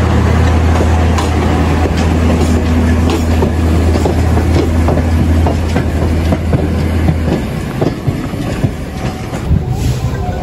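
Diesel locomotive of a steam-style tourist train running with a steady low drone while the train moves off, wooden two-axle coaches clattering and clicking over the rail joints. The engine drone drops away about seven seconds in.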